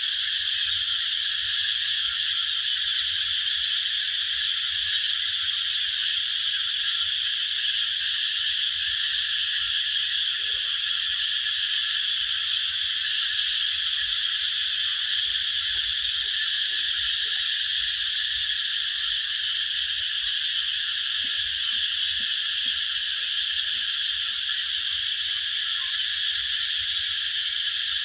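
A dense, steady chorus of calling animals, high-pitched and unbroken, with no single song standing out.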